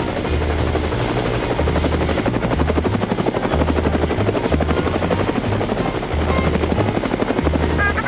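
Cartoon helicopter sound effect: the rotor blades chop rapidly and steadily. A low bass line of background music steps between a few notes beneath it.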